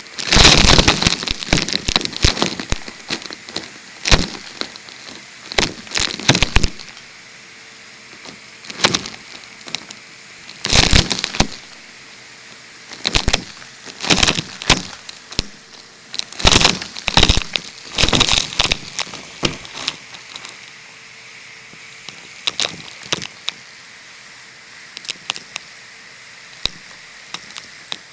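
Numatic vacuum cleaner sucking up debris that crackles and rattles through the hose in irregular bursts over the steady motor, the bursts thinning out in the last several seconds.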